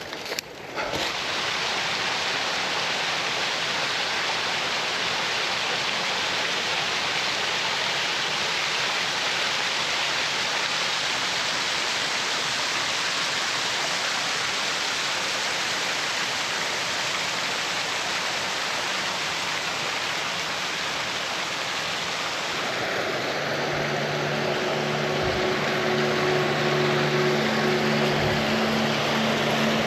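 Rushing water of a rain-swollen creek and waterfalls, a steady full rush. About three quarters of the way through, a steady engine drone with a low hum joins in and grows a little louder.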